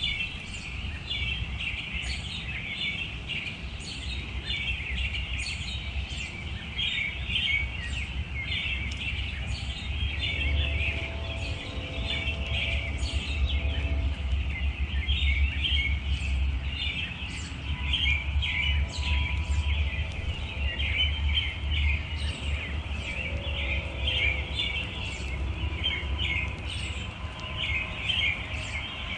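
Many small birds chirping continuously in a dense, overlapping chatter, over a steady low background rumble.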